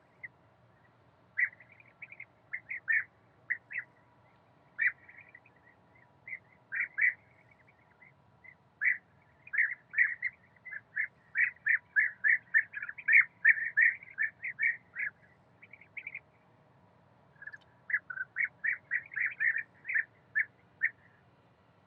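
A bird giving short, high calls, one after another, in irregular runs that crowd into a rapid, loud string through the middle, break off briefly, then start again.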